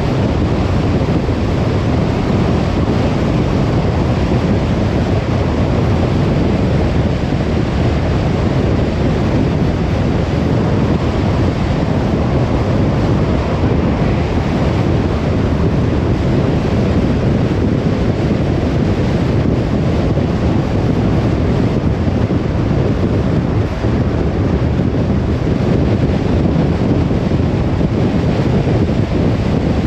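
Car driving at a steady speed: an even, low rumble of tyre and wind noise with no changes.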